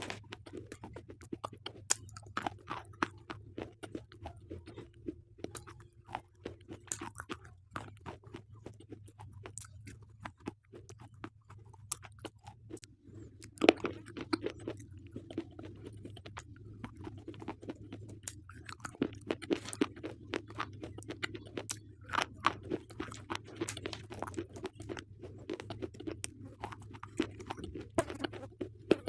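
Close-up crunching and chewing of slate pencils: many sharp, irregular crunches, the loudest about halfway through, over a faint steady low hum.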